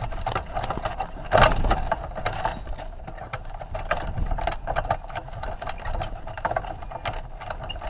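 Irregular rapid clicking and rattling over a low wind-like rumble, with one louder knock about one and a half seconds in.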